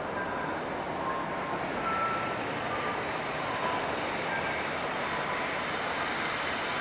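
Electric freight train approaching round a curve: a steady rumble of the locomotive and wagons on the rails, with short high-pitched squeals scattered through, growing louder near the end.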